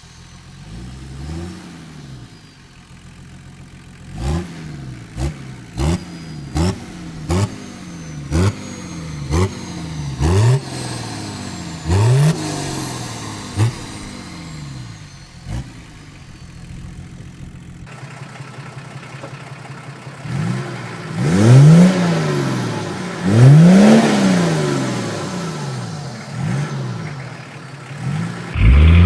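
Diesel engine free-revved in a quick series of short throttle blips, each rising and dropping straight back, then two longer, louder revs that climb and fall near the end.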